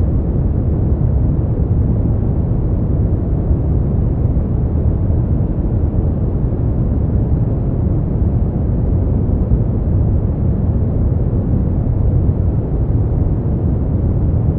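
Steady synthetic sleep noise, an unbroken deep hiss with most of its energy low down and little high-pitched content, so it sounds muffled and rumbling rather than bright. It holds level throughout, with no events or changes.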